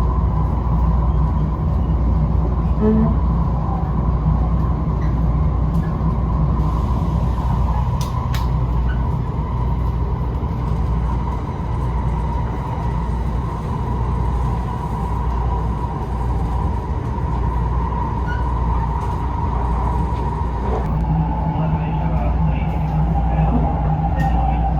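Shinkansen train running on the Hakata-Minami Line: a steady low rumble with a constant whine, which dips slightly lower near the end.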